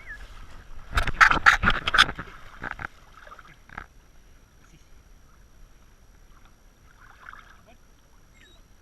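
Kayak knocking and clattering: a quick run of sharp knocks about a second in, then two or three fainter knocks.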